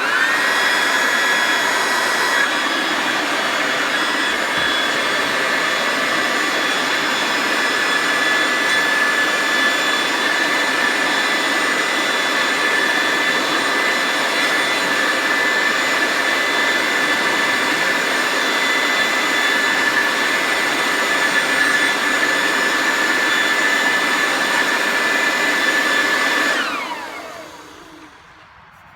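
Leaf blower spinning up at once to full speed, running steadily with a whine over the rush of air, then winding down with a falling pitch near the end.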